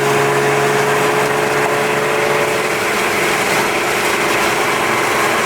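Audi B5's 2.8-litre 30-valve V6 with a straight-pipe exhaust, running steadily at an even speed while the car is driven, with road noise.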